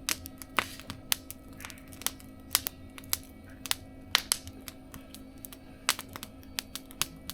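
Burning wood crackling in a campfire, with irregular sharp pops, about two a second, over a faint steady hum.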